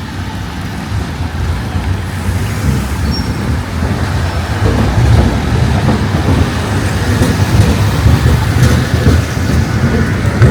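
Street traffic: a motor vehicle's low engine and tyre rumble, growing louder over the last few seconds.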